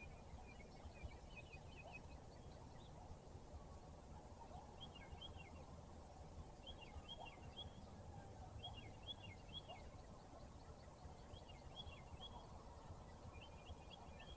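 Faint birdsong over a low steady rumble: a songbird repeats a short phrase of three or four quick, high, falling notes about every two seconds, with scattered quieter calls in between.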